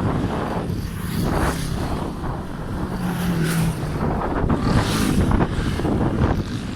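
Wind buffeting the microphone of a bicycle rider's camera while riding on a road, a dense gusting rumble, with a vehicle engine hum passing about three seconds in.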